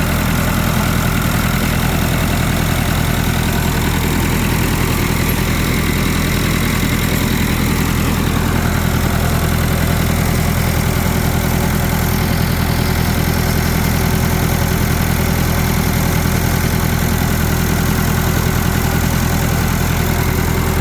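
Tractor diesel engine idling steadily, run after its fuel lines were cracked open so it can draw fuel through and purge air from the fuel system.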